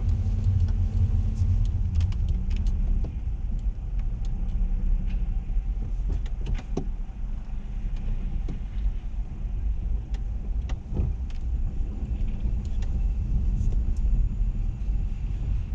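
Steady low rumble of a car heard from inside it, with scattered light clicks and taps throughout.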